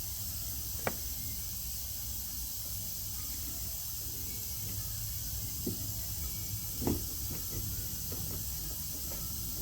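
Steady background hiss and low hum, with a few faint clicks about a second in, past the middle and near seven seconds, from parts being handled during the ring gear and carrier assembly.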